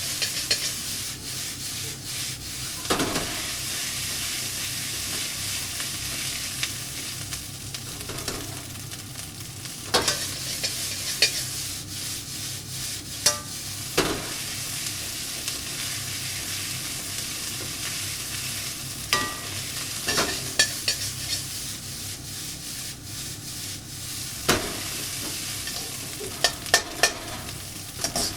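Salmon fried rice sizzling steadily in a hot pan while it is stirred and tossed with a spatula, with scattered sharp knocks and scrapes of the spatula against the pan.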